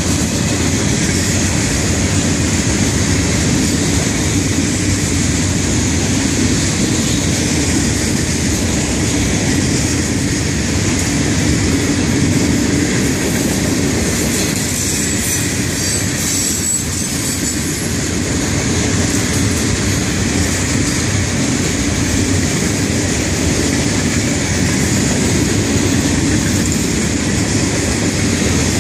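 Freight cars of a long train rolling steadily past on steel wheels over the rails.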